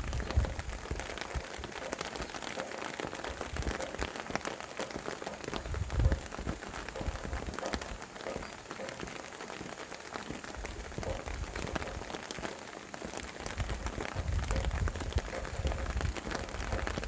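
Steady rain with many individual drops ticking on surfaces, and gusts of wind rumbling low on the microphone about six seconds in and again near the end.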